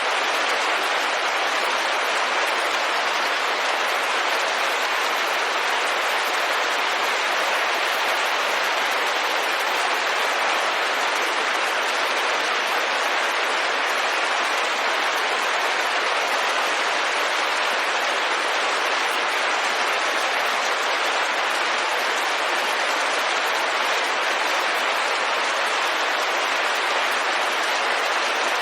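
Steady rain falling on a window, a dense even hiss that holds at one level throughout.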